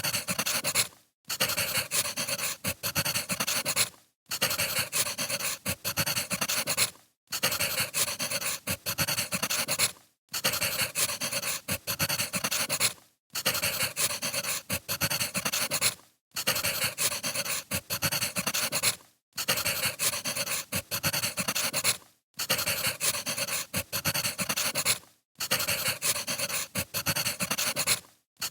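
Crackling wood fire, a steady hiss full of small pops and snaps, played as a short loop that drops out briefly about every three seconds.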